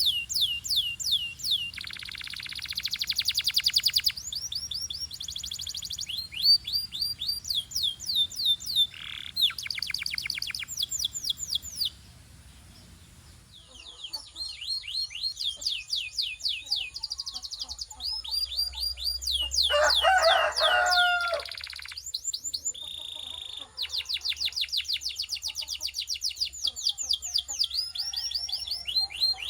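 Canary song: fast trills of rising chirps, several a second, broken by buzzy rolls. There is a brief pause about twelve seconds in and a lower, harsher call near twenty seconds.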